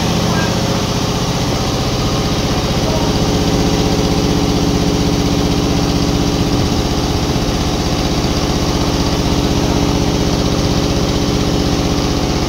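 Engine running steadily at an even speed, with a constant pitch and fine even firing pulse throughout.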